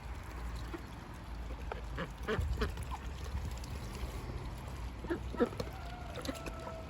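Domestic ducks quacking in short calls, one cluster about two seconds in and another about five seconds in, over a low steady rumble.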